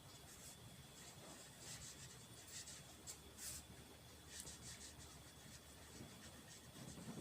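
Faint scratching of a pen writing on paper, in short irregular strokes, over a low steady room hum.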